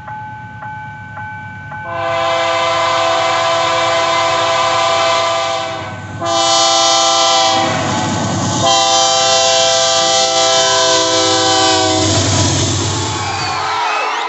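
Locomotive air horn sounding three blasts (long, short, long) as a train approaches, with the locomotive's rumble growing louder near the end.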